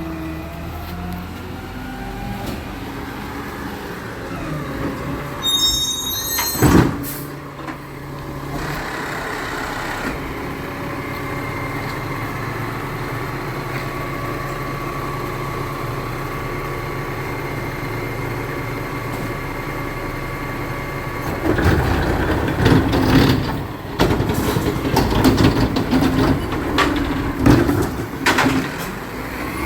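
Recycling truck working with its engine running steadily. There is a sharp burst about seven seconds in and a steady whine in the middle, then repeated clanks and bangs near the end.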